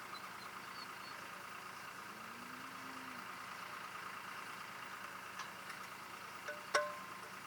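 A steady mechanical hum, like an idling engine or running machinery, fills the background. A few small ticks come late on, then one sharp metallic clink with a short ring near the end.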